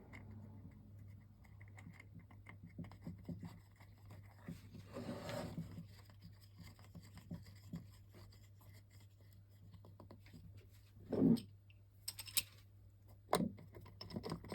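Hands fitting the wheels and wheel nuts of an RC truck: faint scratching and light clicks of small metal parts, a soft rustle about five seconds in and a sharper knock about 11 seconds in, over a low steady hum.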